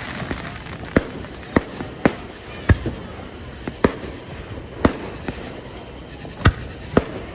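Fireworks display: aerial shells bursting in an irregular run of sharp bangs, about one or two a second, over a steady low rumble.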